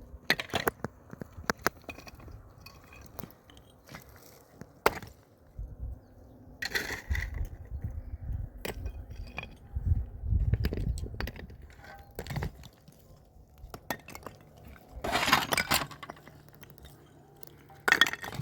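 Irregular sharp knocks and clinks of hard objects striking one another, with a few short bursts of scraping or rustling and a heavier low rumble in the middle.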